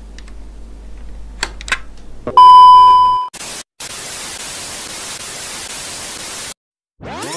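Edited TV-glitch transition effect: a low electrical hum with a few faint clicks, then a loud, steady, high beep for under a second, then about three seconds of TV static hiss that cuts off suddenly. Rising, sweeping tape-rewind warble tones start right at the end.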